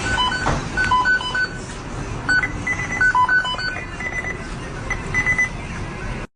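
A run of short electronic beeps at three or four pitches, like a simple tune played on a keypad or toy, over a steady background hiss. It cuts off suddenly near the end.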